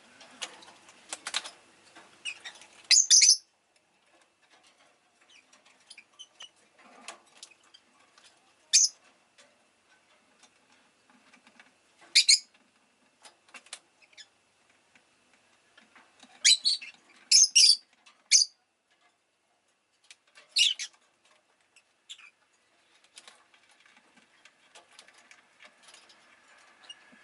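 Rosy-faced lovebird giving short, shrill chirps, some single and spaced several seconds apart, some in a quick run of four or five. Faint clicks and rustles fill the gaps between calls.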